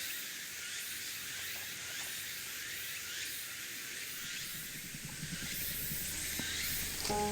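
Meat searing in a hot Dutch oven, a steady high sizzling hiss with small pops and crackles throughout.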